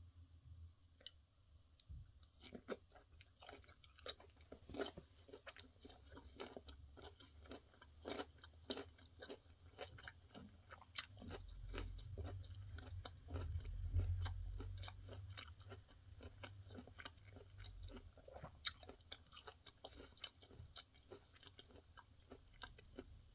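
A person chewing blanched angelica tree shoots (dureup), a steady run of small crunches. A low rumble swells in the middle and fades again.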